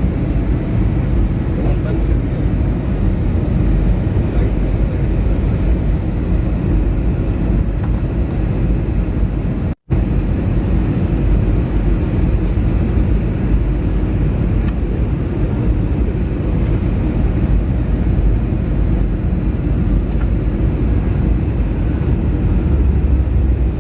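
Airbus A321neo cabin noise in flight: a steady, loud rumble of the engines and airflow, around the time of a go-around. The sound cuts out for an instant about ten seconds in.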